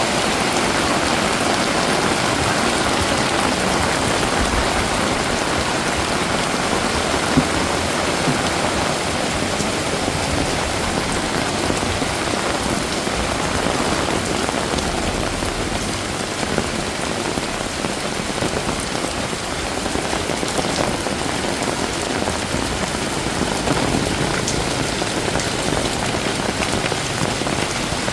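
Heavy rain falling steadily and splashing on hard surfaces, an even, dense hiss with a few sharper drop ticks.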